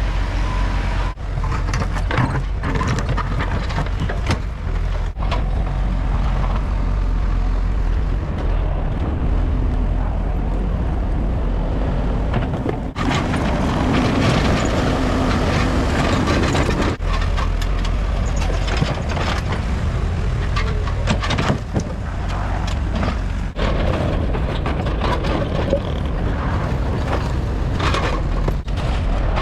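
Diesel engine of heavy excavation equipment running steadily under load, with frequent knocks and cracks of material being broken and dug.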